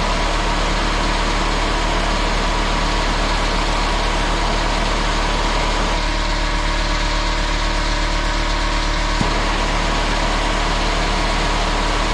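Pneumatic angle grinder running steadily at free speed, its air motor whining with a constant hiss, as it is run nonstop to destruction. The tone shifts a little between about six and nine seconds in.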